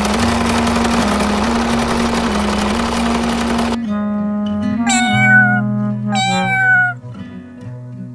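Two cat meows about five and six seconds in, each sliding down in pitch, over background music with a steady low plucked line. For the first few seconds a dense, even noise sits over the music and then cuts off suddenly.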